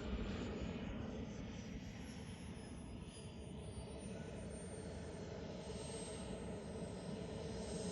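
Turbine-powered RC model jet flying at a distance: a steady rush of engine noise with a thin high whine that slides slowly down in pitch as it passes.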